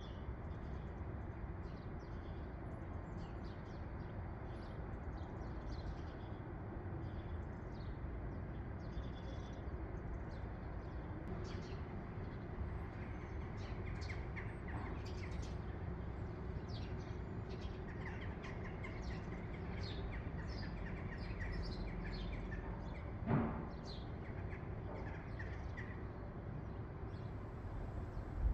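Small birds chirping on and off over a steady low rumble of background noise, with a single sharp knock late on.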